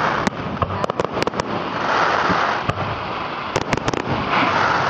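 Fireworks display: aerial shells bursting in sharp bangs and crackles, coming in irregular clusters of quick reports over a steady rushing noise.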